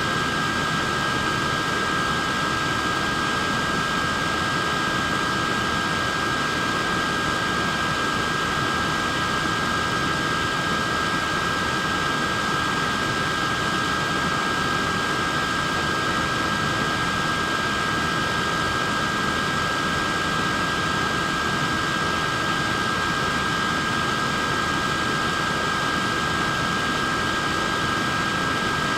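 Portable neck fan running steadily, a constant whoosh of moving air with a steady high-pitched motor whine.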